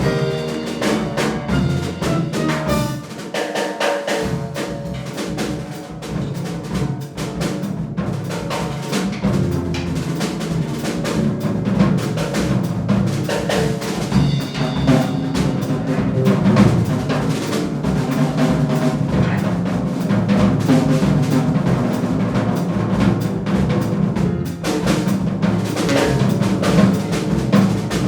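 Live jazz band playing an instrumental passage, with the drum kit prominent under the other instruments.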